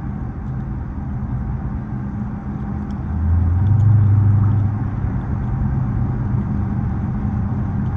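Dodge Charger SRT 392's 6.4-litre HEMI V8 with its mufflers deleted, a steady low drone while driving. About three seconds in it swells louder and slightly higher in pitch for a couple of seconds, then settles back.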